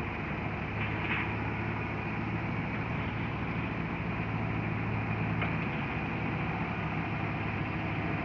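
An engine or motor running steadily with a low hum, and two faint brief sounds about a second in and past the middle.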